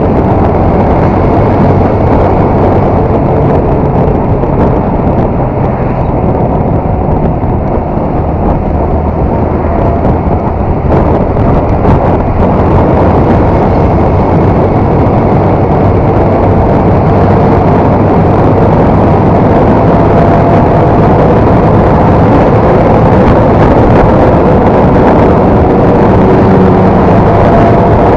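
Honda MSX 125's single-cylinder engine running steadily under way, with loud wind and road noise over the action camera's microphone.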